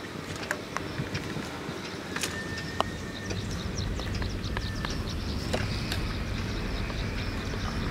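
Crabs frying in oil in a wok on a portable gas stove: crackling sizzle with sharp taps and scrapes of a stirring stalk against the pan, over a low steady rumble that grows louder about three seconds in.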